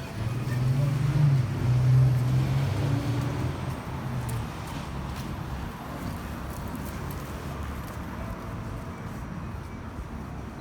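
City street traffic: a vehicle's low engine hum is loudest for the first four seconds or so, then fades into a steady traffic background.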